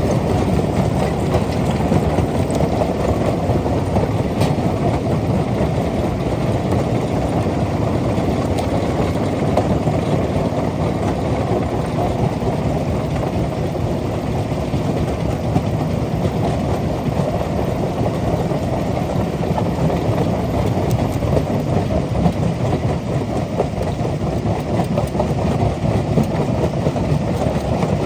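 Rock crusher machine running, a steady dense mechanical rumble and clatter that keeps an even level throughout.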